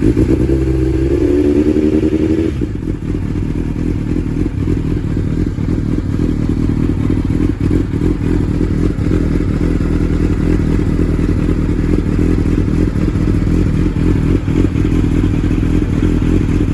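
A vehicle engine revving up, its pitch rising over the first couple of seconds, then running loud and steady at high revs.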